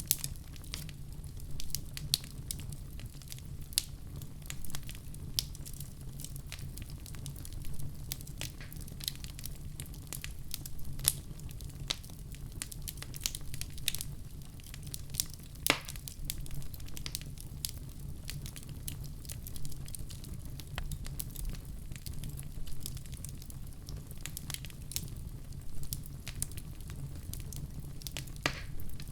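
Wood fire crackling in a fireplace: irregular sharp pops and snaps over a low steady rumble, with one louder pop about halfway through.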